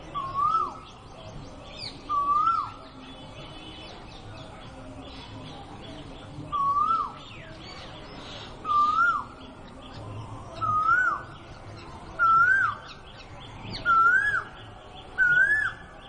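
A bird repeating a swooping whistled call eight times, with a pause after the first two. Each call rises, dips and rises again before falling away, and the calls climb slightly in pitch and come closer together towards the end.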